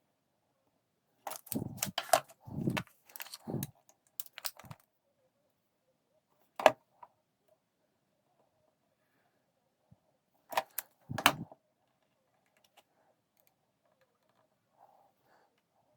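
Intermittent clicks and clatter of small hard parts and tools being handled: a busy run of knocks early on, a single sharp click, then a few more clicks.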